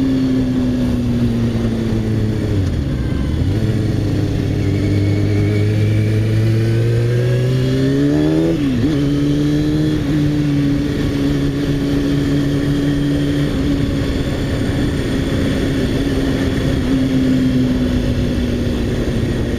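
Motorcycle engine under way with wind rush. The revs fall for a few seconds, then climb steadily, drop sharply at a gear change a little before halfway, and hold a steady cruise after that.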